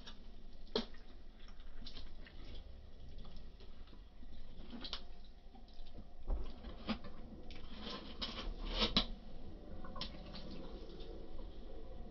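Person chewing a chopped cheese sandwich: wet, irregular chewing and mouth clicks, with a few sharper clicks, the loudest about nine seconds in.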